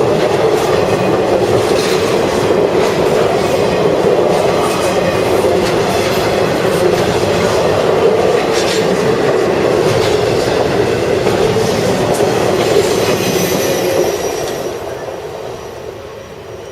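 Intermodal freight cars of a CSX train rolling past, a steady rumble with the wheels clicking over the rail joints. The sound dies away near the end as the train moves off.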